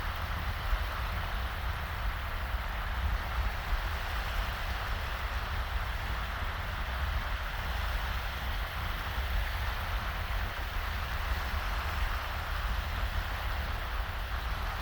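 Small, shallow waves washing steadily onto a sandy beach, with a low rumble of wind on the microphone underneath.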